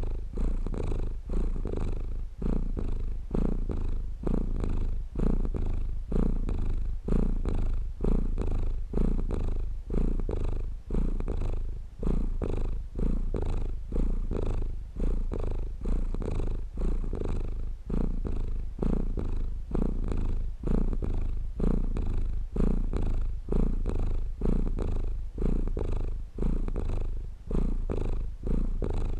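Domestic cat purring steadily, the purr swelling and easing about once a second with each breath.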